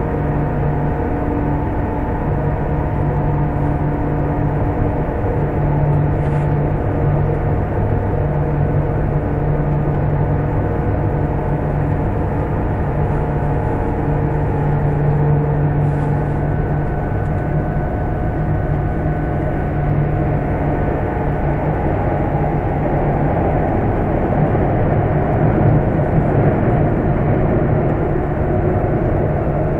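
Running noise of an E1 series double-deck Shinkansen heard from inside the car as it travels through a tunnel: a steady loud rumble with a constant low hum and some higher steady tones.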